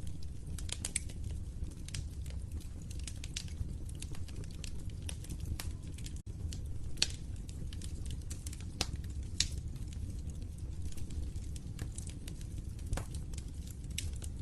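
Wood fire in a fireplace crackling, with frequent sharp pops over a steady low rumble of burning. The sound drops out for an instant about six seconds in.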